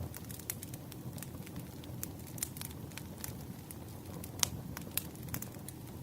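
Wood fire burning: a steady low rumble of flames with frequent irregular crackles and sharp pops from the burning logs, the loudest snaps about four and a half and five seconds in.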